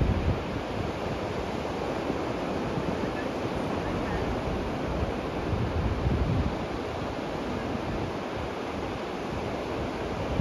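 Steady outdoor rushing noise, with wind buffeting the microphone in low gusts, stronger about six seconds in and again at the end.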